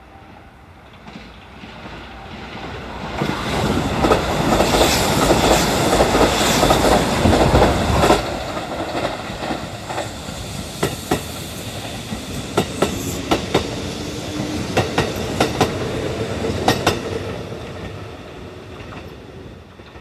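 Kintetsu electric train running along the platform track. Its rumble builds and is loudest a few seconds in, then the wheels click over the rail joints car after car, in quick groups, before fading away near the end.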